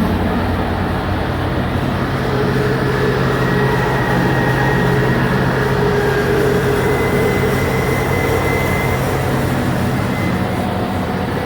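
Old drilling rig's machinery running steadily, a steady low hum with fainter higher tones wavering above it.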